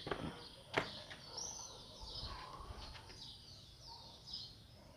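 Small birds calling: a run of short, high, downward-slurred chirps repeating every half second or so. A single sharp knock about a second in is the loudest sound.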